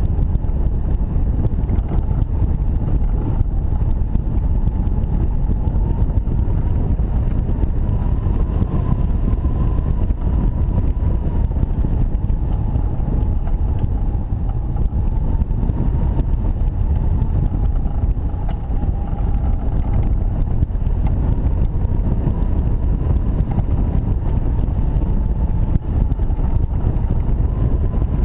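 Strong wind rushing and buffeting over the microphone of a hang glider in flight, a loud steady rumble. A thin, steady whine wavers slightly in pitch above it.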